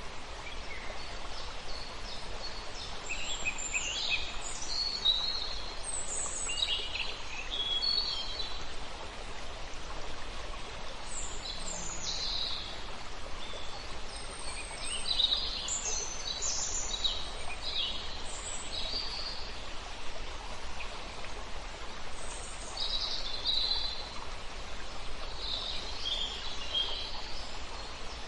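Songbirds singing in short, repeated bright phrases over the steady rush of a river.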